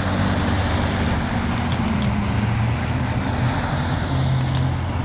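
Motor vehicle engine running with steady traffic noise, a few faint clicks over it.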